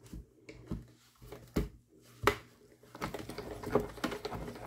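Sharp clicks and taps of cutting plates being handled, then, about three seconds in, a hand-cranked Mini Big Shot die-cutting machine being turned, rattling and clicking steadily as the plates roll through.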